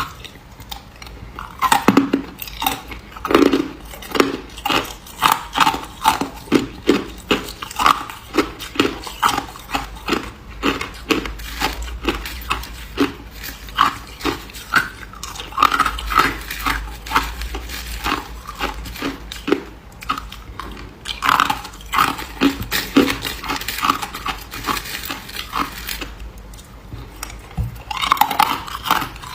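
Ice crunched between the teeth close to the microphone, a steady run of sharp crunches about two a second, with a short pause near the end.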